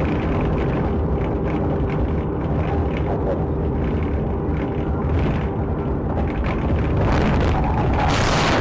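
Loud, steady vehicle engine and road rumble heard from inside the vehicle, swelling into a louder rushing noise near the end.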